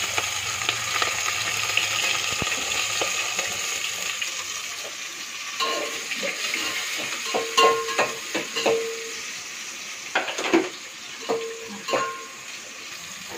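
Sliced onions and green chillies sizzling in hot ghee and oil in an aluminium pot. A metal slotted spoon clinks and scrapes against the pot as they are stirred. The sizzle is strongest in the first few seconds and then dies down, and the clinks of metal on metal take over from about halfway.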